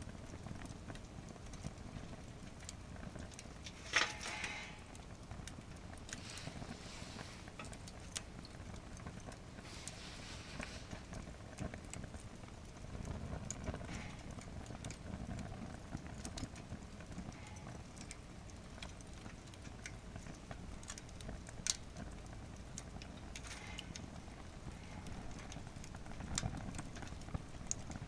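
Overloaded wood fire in a fire pit crackling and popping over a steady low rumble of flame, with a sharp pop and brief hiss about four seconds in and another loud pop near the end.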